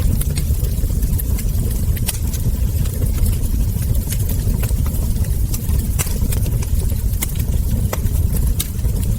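Wood fire crackling, with frequent sharp, irregular pops from the logs and embers over a steady low rumble of the burning fire.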